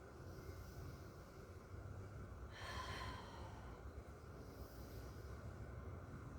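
A woman breathing while holding a one-legged yoga balance, with one audible breath a little before halfway, over a low steady rumble.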